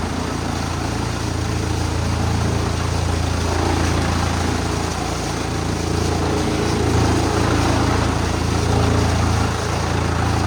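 Wood chipper's engine running steadily with a strong low hum, its level rising and falling slightly.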